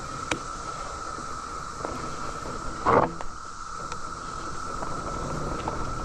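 Steady drone of a cicada chorus, with low rumbling from riding a mountain bike along a trail and a short louder noise about three seconds in.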